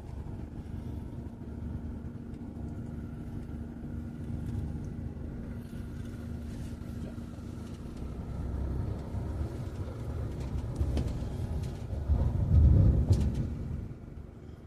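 A motor vehicle's engine running with a steady low rumble, swelling louder for a second or so near the end.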